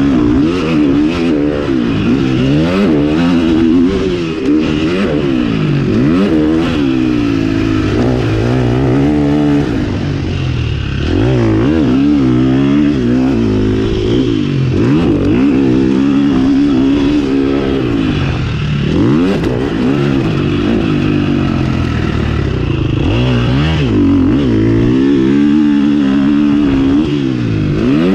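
A KTM 350 SX-F's four-stroke single-cylinder motocross engine being ridden hard, its pitch climbing and dropping over and over as the throttle is opened and closed and the gears change.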